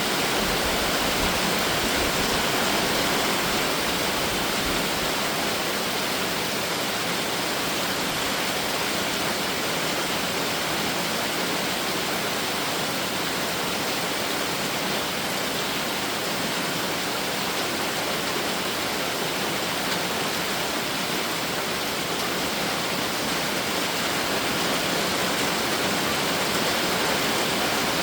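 Summer rain shower pouring down steadily: an even, dense hiss that does not let up.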